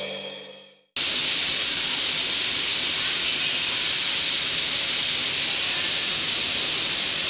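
Background music fading out over the first second, then a steady rushing hiss from a train in motion at a station, even and without wheel clicks.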